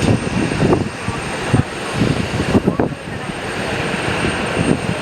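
Aircraft engines running, under gusty wind buffeting the microphone in strong typhoon winds.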